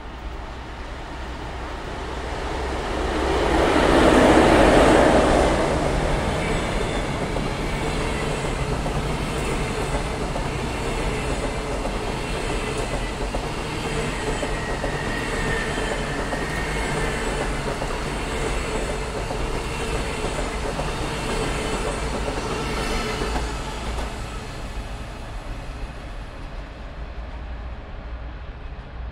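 A train passing close by on the tracks, loudest as its head goes past a few seconds in, then a steady run of cars rolling by with a repeating wheel click-clack and a faint squeal, dying away near the end.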